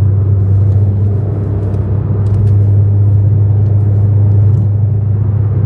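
BMW G80 M3's S58 twin-turbo straight-six, with catless downpipes and a titanium equal-length X-pipe catback exhaust, cruising at steady highway speed, heard inside the cabin as a steady low drone.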